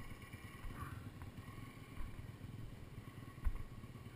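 Pit bike's small single-cylinder engine running steadily at low revs, with a couple of sharp knocks, the loudest about three and a half seconds in.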